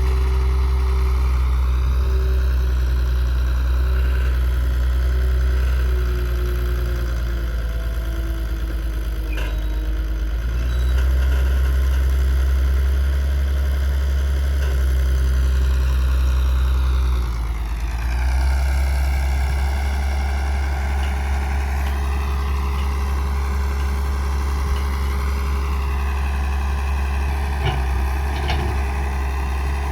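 Diesel engines of tractors and a JCB backhoe loader running steadily at a sand-loading site, a deep continuous engine sound that dips briefly a little past halfway.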